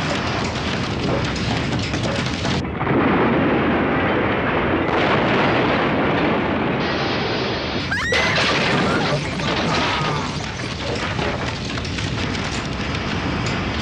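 Earthquake sound effect from a television drama: a continuous heavy rumbling with crashing noise, cut between shots in several places.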